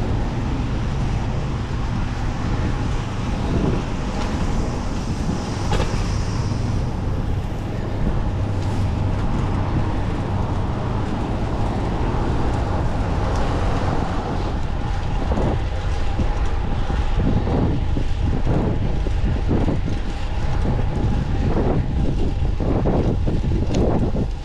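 Steady rushing wind and road noise from a fixed-gear bicycle being ridden, with a run of short knocks about once a second in the second half.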